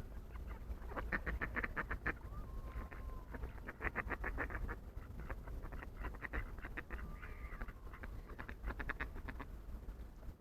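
Ducks quacking in several quick runs of rapid calls, with a thin drawn-out whistling note twice in between.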